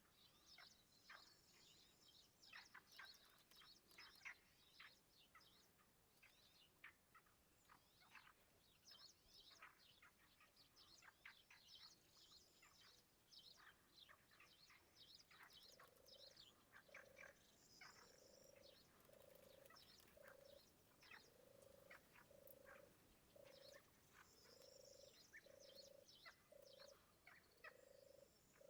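Faint frog chorus: many short, high chirping calls throughout, joined about halfway by a low croak repeating steadily, a little more than once a second.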